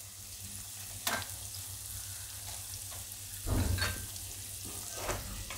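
Cauliflower florets sizzling softly in oil in a nonstick wok, with a few scrapes and knocks of a spatula stirring them, the strongest about three and a half seconds in.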